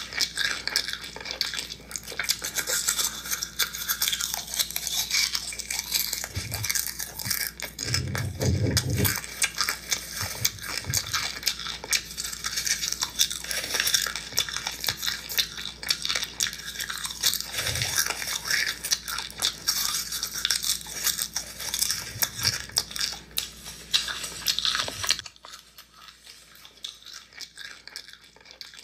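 Popcorn being chewed close to the microphone: a dense, continuous crackling crunch with a few duller thumps, stopping suddenly near the end.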